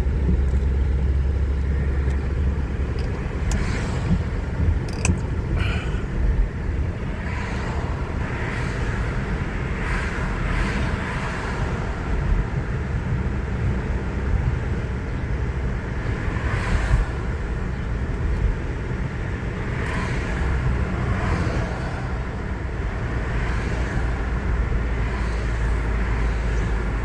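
Steady road and engine noise of a car being driven, heard from inside the cabin, a constant low rumble with soft rises and falls.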